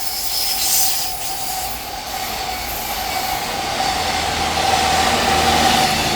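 Freight train passing, its wheels giving a steady high squeal over the rolling noise, with a low hum growing louder in the second half.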